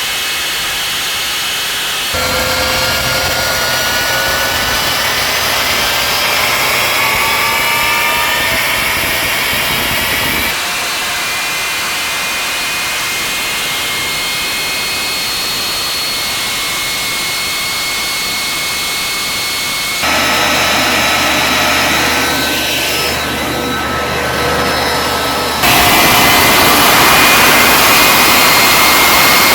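The turbojet engine of a jet-powered pontoon boat running under power: a steady loud rush with high whining tones that slide up and down in pitch. The sound changes abruptly several times, about 2, 10, 20 and 26 seconds in, where clips are cut together.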